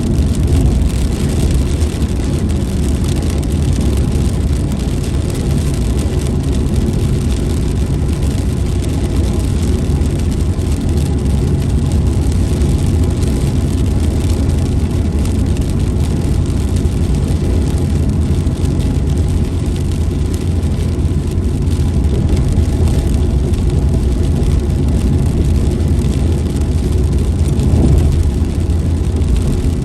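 A car being driven, with a steady low engine and road rumble throughout.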